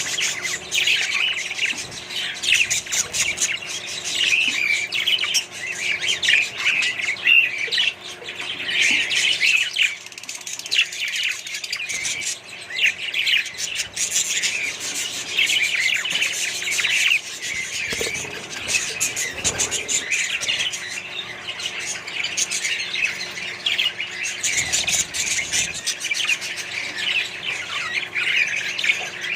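A flock of budgerigars and other parrots chirping and squawking together, many calls overlapping in a continuous chatter.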